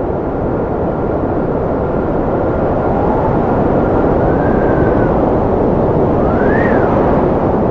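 Strong wind blowing steadily, with whistling tones that rise and fall a few times, the loudest one near the end.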